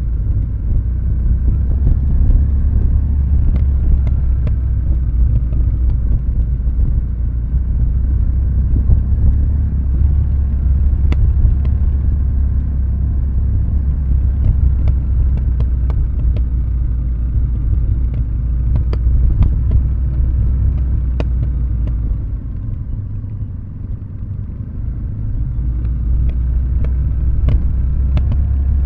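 Kawasaki W650's air-cooled parallel-twin engine running at low revs through a Nasert Trad aftermarket exhaust, with the throttle closed as the bike coasts downhill. The exhaust note dips lower and quieter a little past the middle, then comes back up. Scattered sharp ticks sound throughout.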